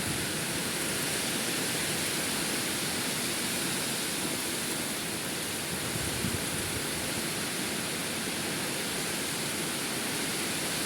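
Heavy rain pouring down in strong wind: a steady, unbroken hiss of a downpour with large raindrops.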